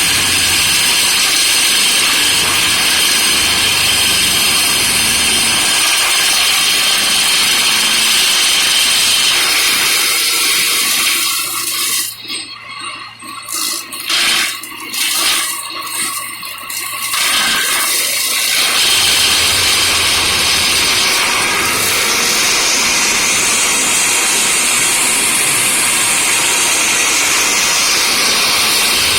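Heavy machinery running loud with a steady rushing noise, dropping away and sputtering for several seconds in the middle before coming back to full level.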